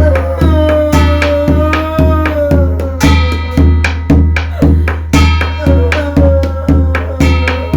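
Korean shamanic ritual (gut) music: a drum beating a steady rhythm, about two strokes a second, with strokes that ring up high like cymbals, under a melody of held notes that slide in pitch.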